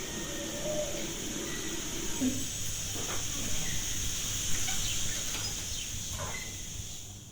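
Outdoor summer ambience: birds calling here and there over a steady high-pitched drone.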